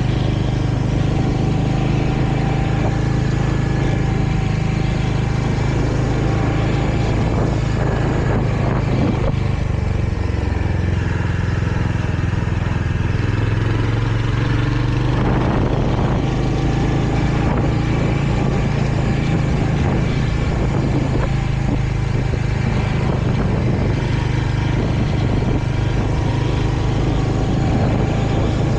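Royal Enfield Hunter 350's single-cylinder engine running steadily as the motorcycle rides along. The engine note falls and then rises again about halfway through.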